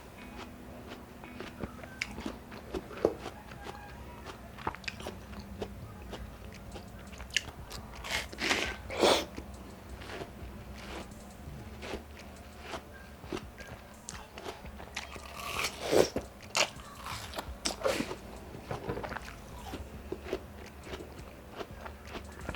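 Close-up eating of fresh watermelon slices: juicy crunching bites and chewing, with two louder bursts of biting about eight and fifteen seconds in.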